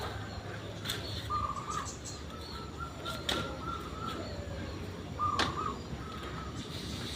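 Zebra dove (perkutut) cooing: several phrases of short, quick notes held near one pitch. Three sharp clicks are heard between phrases, the loudest about five seconds in.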